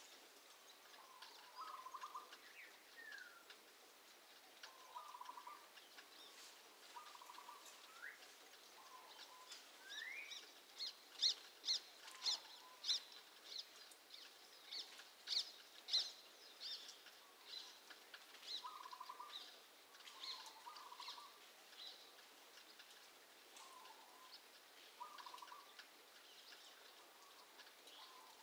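A pet bird calling over and over, faint: short low calls repeated every second or two and a few rising whistles, with a run of sharp, louder high-pitched calls in the middle.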